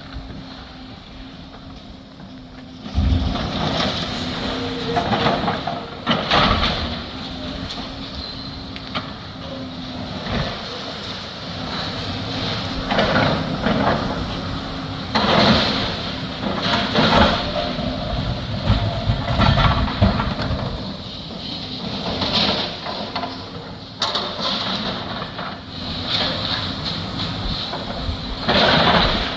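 Demolition machinery at work: a steady engine hum with repeated crunching and crashing of rubble, starting about three seconds in.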